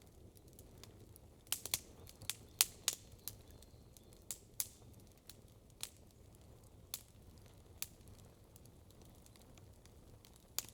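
Wood campfire crackling: irregular sharp pops, bunched together in the first few seconds and then sparser, over a faint low rumble.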